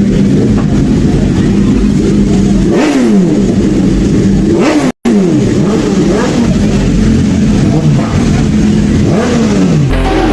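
High-performance engines running loudly, with several rising and falling sweeps in pitch as vehicles rev and pass by. There is a brief dead cut about halfway through.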